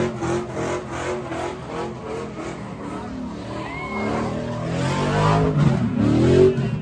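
Car engine revving hard at a street sideshow, its pitch swinging up and down and climbing steeply about five to six seconds in, over the noise of tyres skidding.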